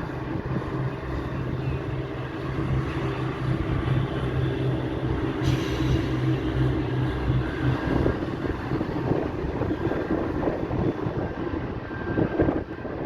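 A train running at a station: a steady, low pulsing engine hum for about eight seconds, giving way to a rougher rumble.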